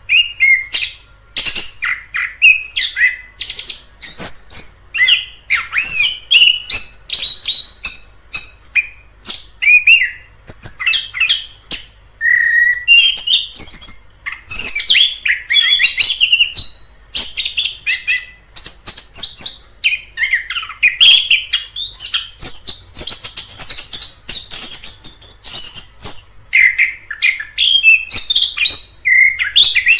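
Chestnut-capped thrush (anis kembang) singing a fast, varied song of whistles and chirps that runs on almost without a break, with only brief pauses.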